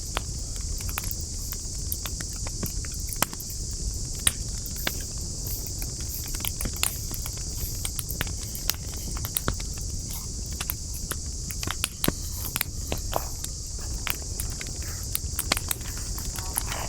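Campfire wood crackling, with frequent irregular sharp pops and snaps over a steady high hiss and a low rumble.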